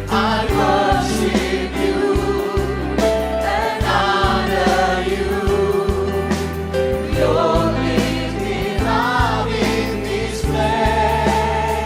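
Worship music: a band with sustained keyboard and bass chords under voices singing a slow worship song.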